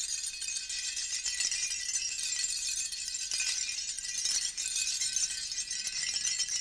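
A primitive rattle shaken continuously, giving a dense, even clatter of many small hard pieces, with a few faint ringing tones underneath.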